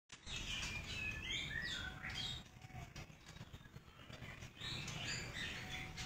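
Songbirds chirping and whistling: a run of short, gliding calls, a lull of about two seconds, then more calls near the end.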